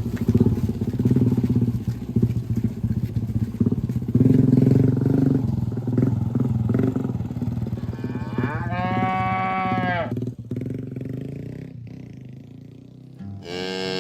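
Cattle mooing: one long moo about two-thirds of the way in, and another beginning near the end. Under the first half, a low steady motor drone that fades away.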